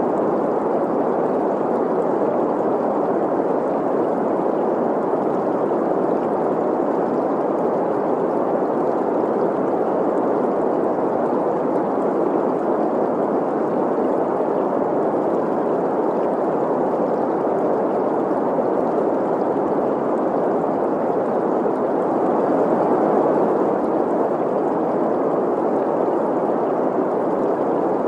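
Green noise, a steady, even hiss centred on the middle of the hearing range, blended with a flowing stream.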